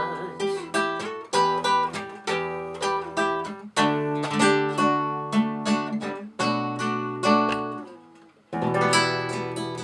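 Acoustic guitar playing a song's closing instrumental alone, a run of plucked and strummed chords with ringing bass notes and no singing. The playing thins out to a brief pause about eight seconds in, then comes back with a final strummed chord.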